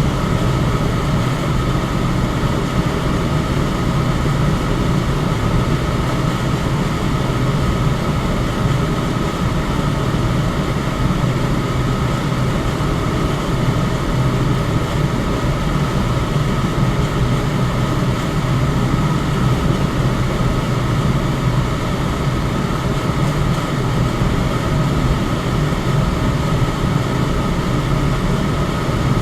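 Electric fan running steadily: an even whoosh of moving air over a low hum, with a faint steady whine on top.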